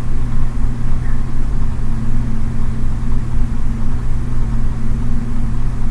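A steady low mechanical hum with a fluttering rumble underneath.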